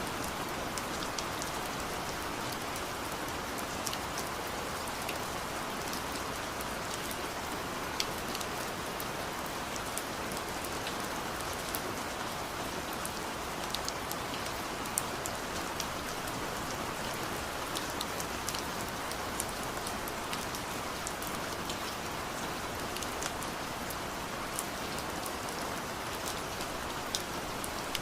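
Steady rain falling, with many individual drops ticking sharply on a hard surface over the even hiss of the downpour.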